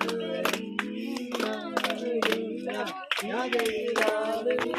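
People singing a song together unaccompanied, clapping in time at about two or three claps a second, with a brief break in the singing about three seconds in.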